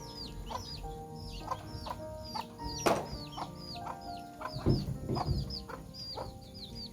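Rapid, repeated high-pitched bird peeping over background music, with a sharp knock about three seconds in and a couple of dull thumps around five seconds.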